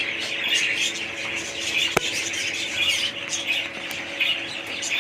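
A flock of small caged parrots chattering and squawking together in a dense, unbroken chorus of short high calls, with a single sharp click about two seconds in.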